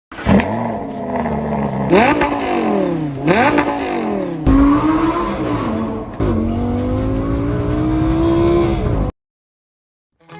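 Lamborghini Gallardo V10 engine, in short clips that change abruptly: it flares near the start and settles, is blipped sharply twice around two and three and a half seconds in, then runs under steady load with the pitch slowly rising as the car accelerates. It cuts off suddenly about nine seconds in.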